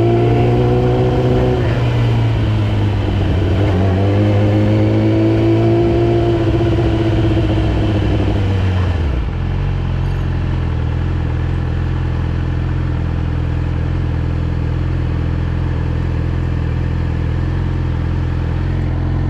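Yamaha R6 inline-four engine on the move, its pitch falling and rising as the revs change; about nine seconds in it drops abruptly to a steady low idle.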